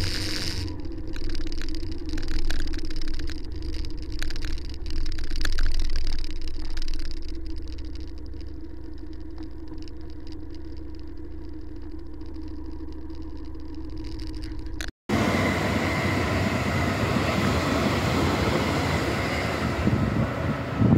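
Small motorcycle engine running as the bike pulls away and cruises, a steady low drone that swells and falls for the first few seconds, then holds level. After a sudden break near the end it gives way to wind rushing over the microphone.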